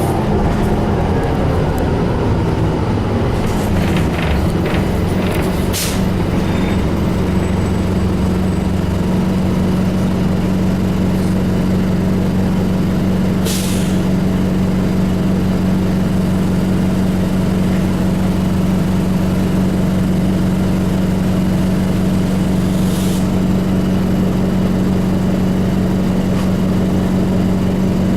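Inside a New Flyer D35LF bus: its Detroit Diesel Series 50 engine and Allison transmission drop in pitch over the first few seconds, then run at a steady drone. Short hisses of air from the bus's air system come three times, at about six, thirteen and twenty-three seconds in.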